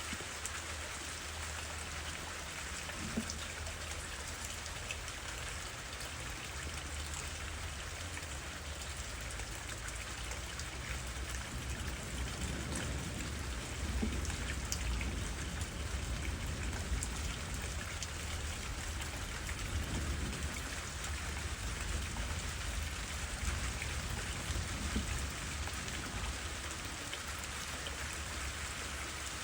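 Steady rain pattering through trees, with scattered close drop ticks and a low rumble of wind that grows a little stronger about halfway through.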